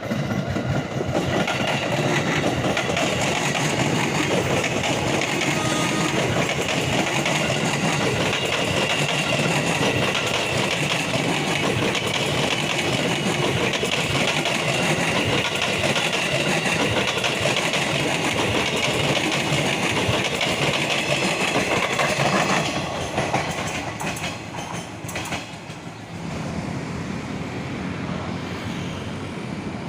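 KRL Commuter Line electric train passing close by, wheels clattering over the rails in a loud, steady run. The noise drops sharply about 22 seconds in, leaving a quieter rumble.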